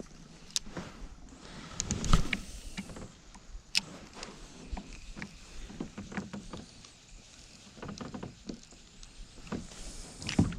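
Kayak on the water: irregular knocks and clunks against the hull with some water splashing, the loudest knock about two seconds in.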